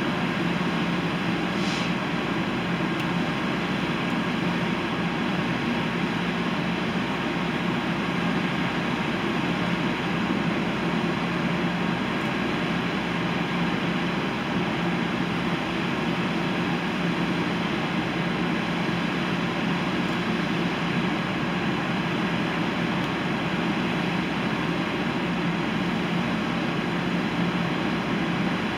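Train running steadily: an even rumble with a low hum that holds the same level throughout.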